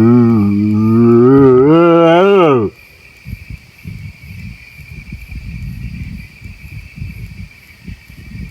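A man's deep, drawn-out moaning vocal imitation of a strange animal call, throaty and wavering, rising in pitch at the end and cutting off about two and a half seconds in. Crickets then chirp steadily over faint, irregular low rumbling.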